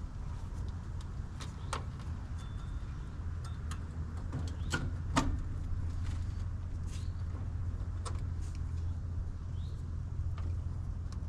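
Scattered sharp clicks and taps of tools and wire being handled at an outdoor AC condenser, a few seconds apart, over a steady low hum.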